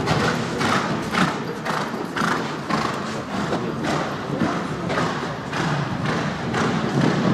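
Horse's hoofbeats thudding on arena footing in an even rhythm, about two beats a second, as the horse canters around a showjumping course.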